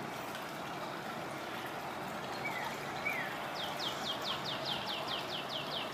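A small bird gives two short chirps, then about three and a half seconds in starts a fast trill of high notes, each falling in pitch, about five a second. A steady outdoor hiss runs underneath.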